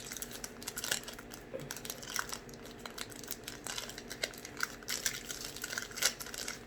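A protein bar's plastic wrapper crinkling in irregular crackles and clicks as it is handled and worked at to get it open. The seal is very tight.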